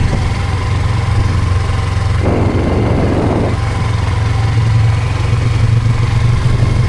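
An engine running steadily at a low, even note, with a short burst of hissing noise about two seconds in.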